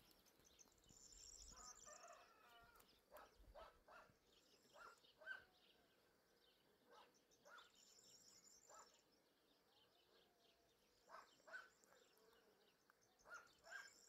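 Near silence, with faint, scattered bird chirps and a few soft taps.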